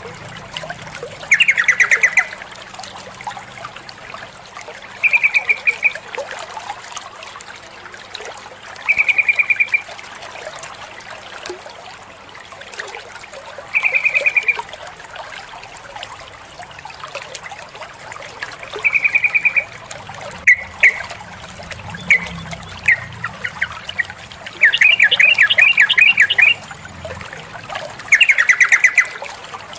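Female yellow-vented bulbul (trucukan) giving short, rapid chattering calls, each about a second long, repeated roughly every four seconds. A few single notes come shortly after the middle, and a longer chatter follows near the end. This is the female's call to a male, used to prompt male birds to sing.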